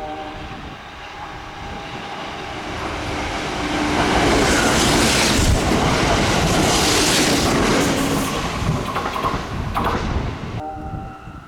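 A Kintetsu train running through a station without stopping: the rush of wheels and air builds, is loudest about four to eight seconds in with clattering over the rail joints, then falls away near the end.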